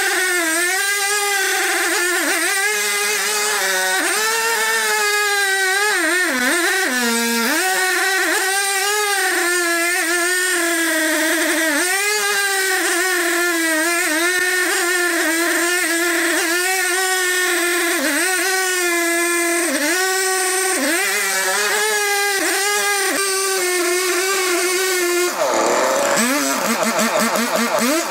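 Engine-driven wood-cutting saw running hard. Its pitch wavers and dips several times, most deeply about seven seconds in. Near the end the pitch drops and a fast rattle of clicks takes over.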